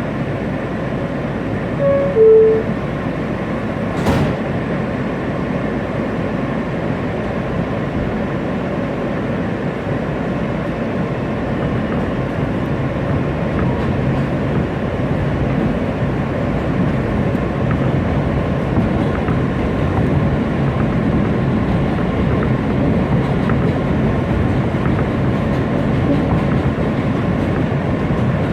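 New York City subway train heard from inside the car: a short two-note falling door chime about two seconds in, a sharp knock a couple of seconds later, then steady running noise that grows slightly louder as the train pulls out.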